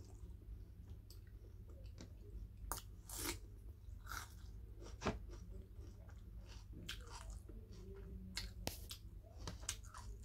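Close-miked chewing of pork: irregular wet mouth clicks and smacks over a low steady hum.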